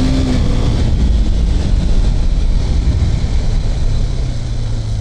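KTM RC 390's single-cylinder engine running at road speed under a steady, loud rush of wind on the rider's microphone. A low steady hum joins in near the end.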